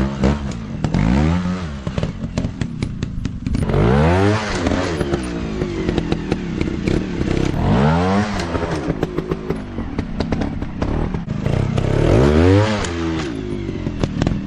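Off-road motorcycle engines revving up and dropping back again and again, with a strong rise about every four seconds. Many sharp knocks and clicks are mixed in.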